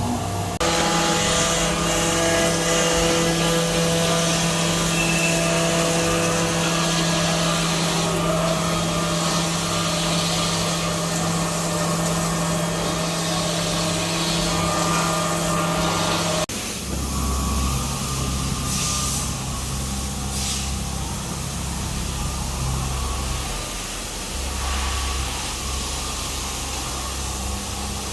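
CNC machine tools running: a steady motor and spindle whine with several held tones. A little past halfway it changes abruptly to a different, lower machine hum.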